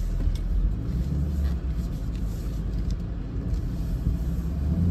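Chevrolet Camaro SS's 6.2-litre V8 running steadily at low revs, heard from inside the cabin.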